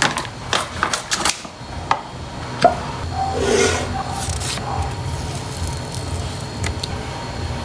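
Glassware and kitchen items being handled on a counter: a quick run of sharp clicks and knocks in the first three seconds, then a rubbing sound about three seconds in, with a few lighter taps later.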